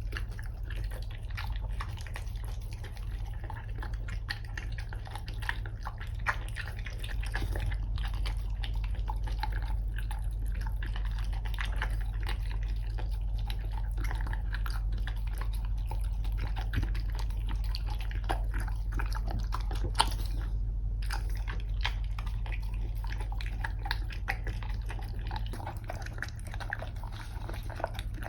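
Chow chow eating from its bowl: a continuous run of irregular small crunches, clicks and wet smacks of chewing and licking.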